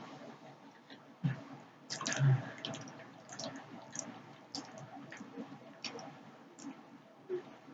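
Close-miked eating of cheese-topped spaghetti: wet chewing, slurping and lip smacks in irregular clicks, louder about a second and two seconds in, over a faint steady hiss.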